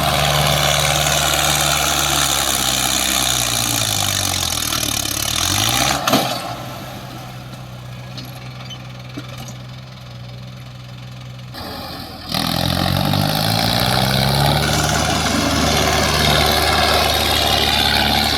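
Diesel tractor engine of a Mahindra Arjun working under load while straining to haul a soil-loaded trolley up a slope. It runs steadily, its speed falls away around three to six seconds in, with a knock near six seconds, runs much quieter for several seconds, then comes back suddenly about twelve seconds in and revs up before settling into steady running.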